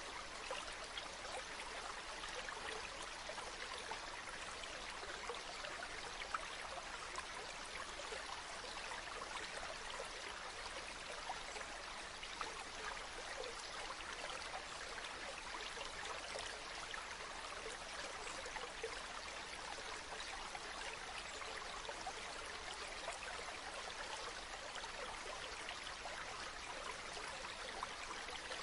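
Waterfall: water falling and splashing in a steady rush, with fine patters of spray throughout.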